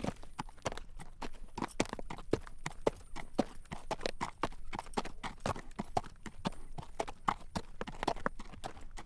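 Horse's hooves clip-clopping on a road at a steady walk, a regular run of clacking hoof strikes, about three to four a second, as the horse draws a carriage.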